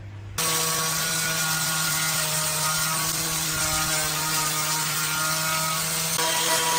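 A power tool running steadily with a dense, hissing whine. It cuts in abruptly just under half a second in.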